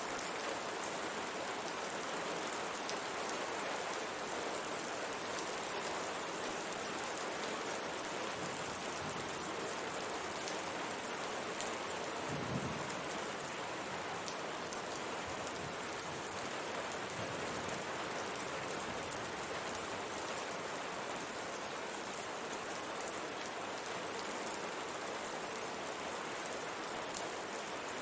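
Steady rain pattering on window glass: a dense, even hiss of drops. One soft low thump about halfway through.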